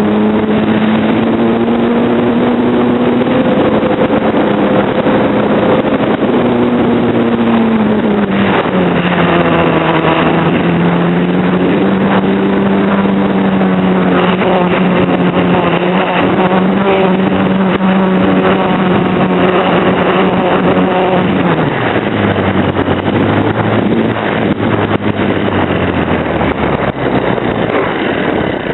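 Radio-controlled model Cessna's motor and propeller running in flight, as heard from the onboard FPV camera: a steady buzzing drone that rises and falls with the throttle. About two-thirds of the way through it drops sharply to a lower pitch as the throttle is pulled back.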